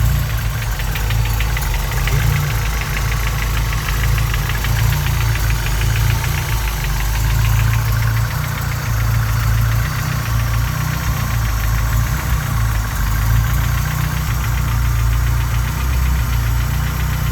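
Honda H23 2.3-litre four-cylinder engine idling with a fast, even knocking over its running note, which the owner puts down to piston slap while the engine is cold.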